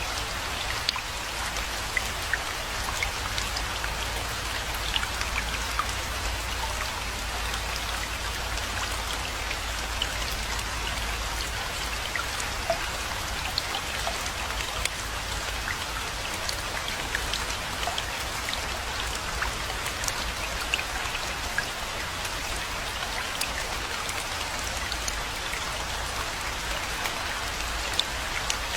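Steady rainfall, an even hiss of rain with many individual drops ticking sharply close by, over a low steady rumble.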